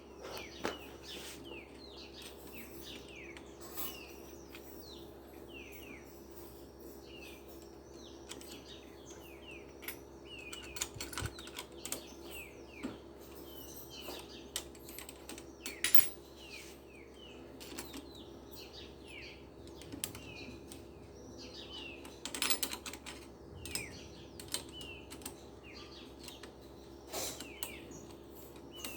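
Small birds chirping again and again in short, quick, falling notes, mixed with scattered sharp clicks and a steady low hum.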